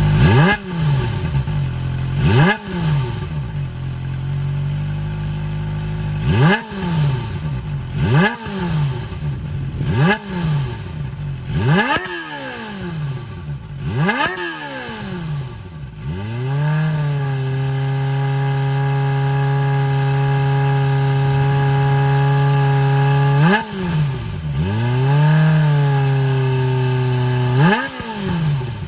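Kawasaki ZX-25R's 250 cc inline-four revving through its stock muffler gutted into a full straight-through pipe, with both the pre-chamber box and the silencer emptied. A string of sharp throttle blips each drop back toward idle, then the revs are held steady for about six seconds before two more blips near the end.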